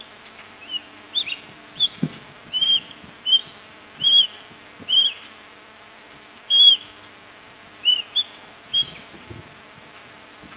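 Bird chicks chirping: about a dozen short, high cheeps, each rising and falling, at uneven spacing.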